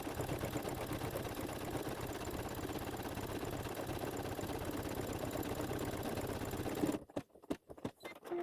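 Embroidery machine stitching a satin-stitch border at a rapid steady rate, stopping abruptly about seven seconds in, followed by a few short clicks.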